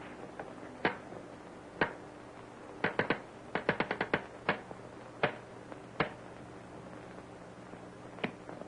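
Telegraph sounder clicking out a Morse code message: sharp clicks at uneven spacing, single ones and a quick run of several in the middle, over a faint steady hum.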